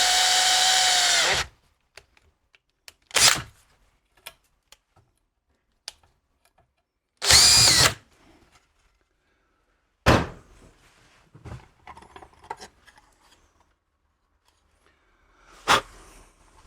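Power drill with a quarter-inch bit running steadily, boring a drain hole in an antenna balun enclosure, then stopping about a second and a half in. Two short bursts of the drill follow, the second about four seconds after the first, and then a few sharp knocks and clicks of handling.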